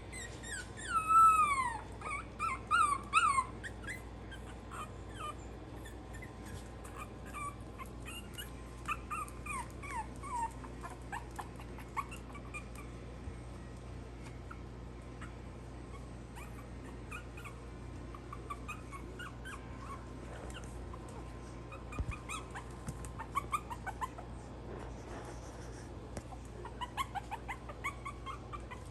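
Young Maltese puppies whimpering and squealing: high cries that slide down in pitch, loudest in a cluster of several in the first few seconds, then scattered shorter whines.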